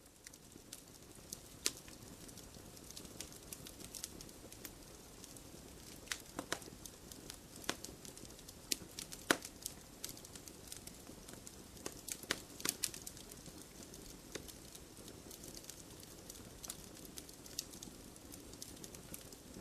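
Wood campfire crackling: a low steady rush of burning with irregular sharp pops and snaps, a few of them louder than the rest.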